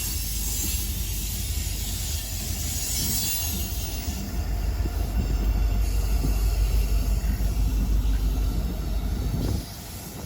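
Freight train passing close by: a steady low rumble of the cars on the rails with hiss above it. It grows louder about four seconds in and cuts off suddenly near the end.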